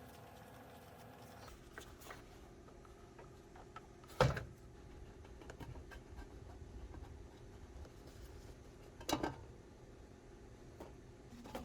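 Workshop handling noises: light scraping and clicking, with two sharp knocks about five seconds apart, over a steady low hum.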